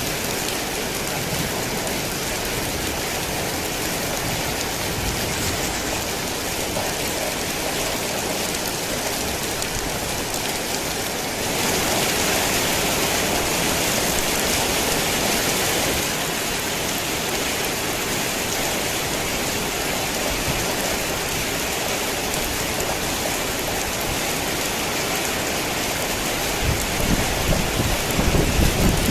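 Heavy rain falling steadily, swelling louder for a few seconds about halfway through. Near the end a low rumble of thunder comes in.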